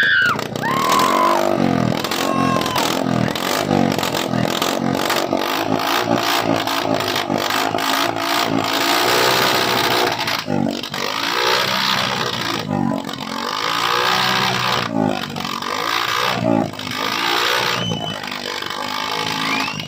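Yamaha R1 superbike's inline-four engine revving and accelerating, its pitch climbing and falling again many times over with brief breaks between.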